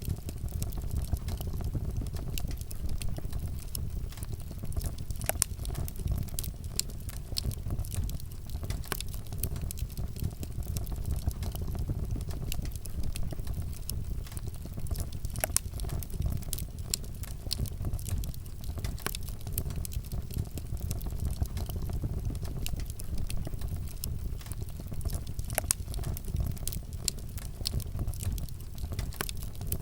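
Wood fire burning and crackling, with frequent sharp pops and snaps over a steady low rumble.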